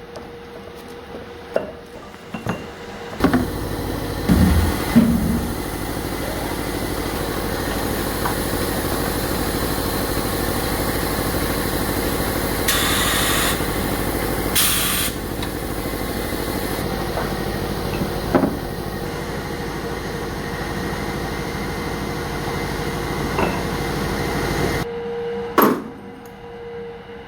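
A workshop machine starts running with a steady mechanical drone that lasts about twenty seconds, with a few knocks just after it starts and two short hissing bursts midway, then stops; a sharp click follows.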